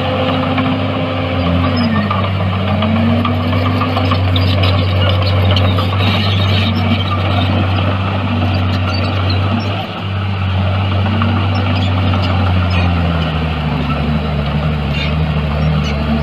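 Diesel engine of heavy earthmoving equipment running under work, a deep steady drone with a higher engine note that sags and climbs back several times.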